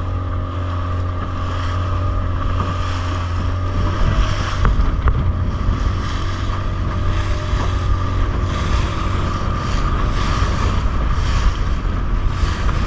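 Motorboat engine running steadily, with wind buffeting the microphone and water rushing past the hull.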